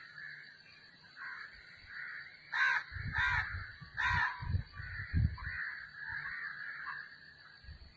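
A crow cawing three times in quick succession, over a steady high-pitched background hum and some low rumbling.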